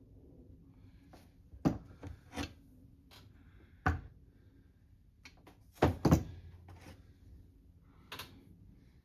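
Irregular sharp knocks and clicks from small parts and tools being handled during carburetor reassembly, loudest about a second and a half in, near four seconds and around six seconds.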